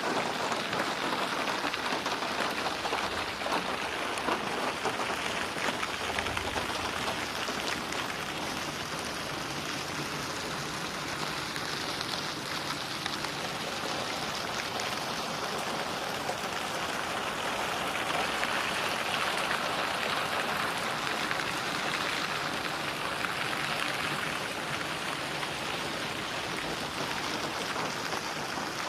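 Steady rainfall with splashing drops on a surface, a dense even patter that swells and eases slightly, without thunder.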